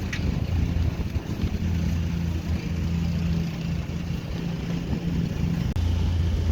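Excavator's diesel engine running steadily with a low hum, briefly dipping near the end.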